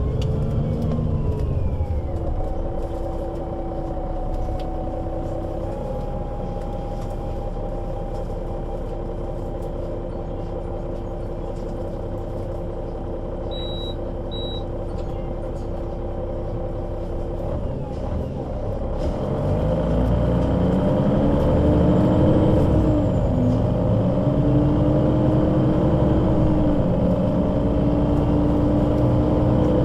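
Solaris Urbino 12 III city bus's diesel engine and Voith automatic gearbox: the bus slows, then runs steadily at low revs with a constant whine, and two short high beeps sound near the middle. About two-thirds in the bus pulls away and accelerates hard, the engine note rising, dropping back at each of two gear upshifts, and rising again.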